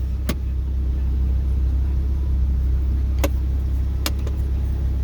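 Audi R8's V10 engine idling steadily, heard as a low rumble from inside the cabin. Three sharp clicks of cabin switches or buttons being pressed come near the start and twice about three to four seconds in.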